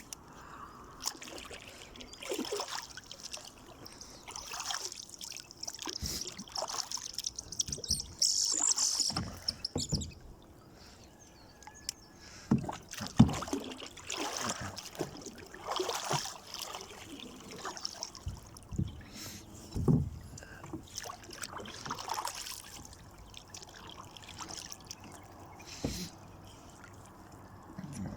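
Water splashing and irregular knocks and bumps from a small fishing boat as gear is worked, with a sharp knock about halfway through.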